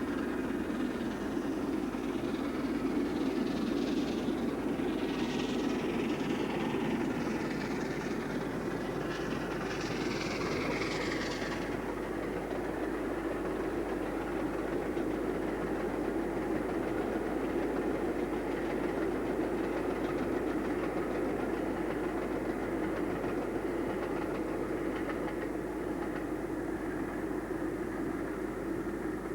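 Peppercorn A2 Pacific steam locomotive 'Blue Peter' running with its train at speed: a steady rumble of locomotive and carriages on the rails, with a higher hiss over it that fades out about twelve seconds in.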